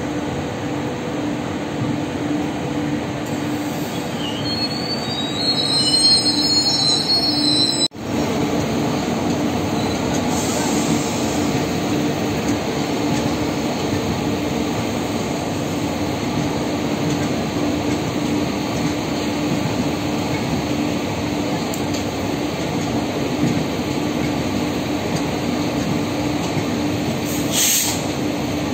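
Passenger train running, heard from aboard a coach: a steady rumble with a constant low hum. High-pitched wheel squeal rises over it from about four seconds in, then breaks off with a momentary drop-out about eight seconds in; a short hiss comes near the end.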